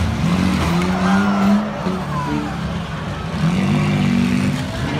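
Demolition-derby car engines revving, their pitch rising and falling, with a short higher squeal in the first couple of seconds.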